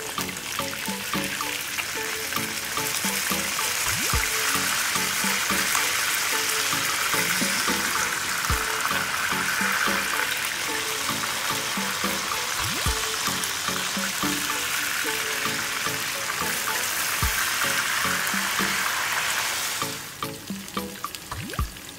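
Yellowfin tuna steaks frying in hot oil in a pan, a steady sizzle that swells a few seconds in and drops away near the end. Background music with a slow, regular bass beat runs underneath.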